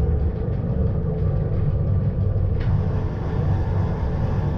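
Steady low rumble of a narrow-gauge rack railway's electric multiple unit running along the track, heard from inside the driver's cab. A hiss sets in suddenly about two and a half seconds in and continues.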